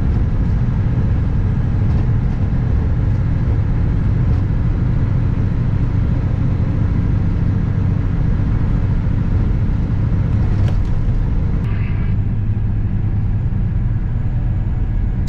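Kenworth W900 semi truck's diesel engine running with a steady low drone.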